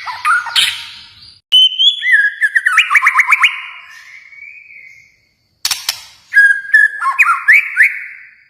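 A murai batu Kalimantan (Bornean white-rumped shama) singing loud phrases of clear whistles and quick rising notes mixed with sharp clicks, in three bursts separated by brief pauses.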